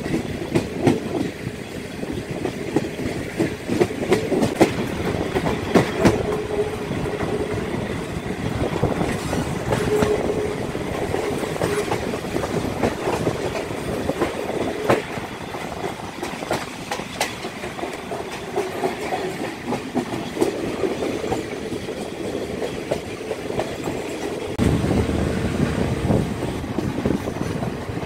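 Passenger train running, heard from an open carriage window: the wheels click and rattle irregularly over the rail joints over a steady rumble. The low rumble grows heavier near the end.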